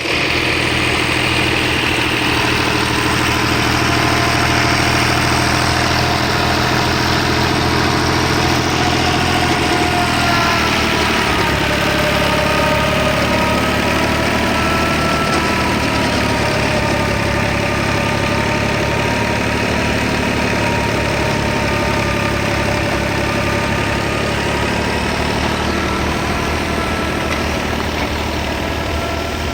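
A tractor-driven wheat thresher running steadily, with the engine's low hum under a whining tone that slowly drifts down and up in pitch.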